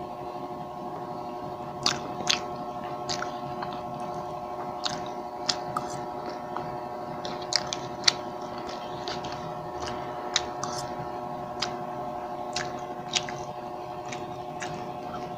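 Close-miked chewing of a mouthful of siomay: wet mouth clicks and smacks scattered every second or so, over a steady hum.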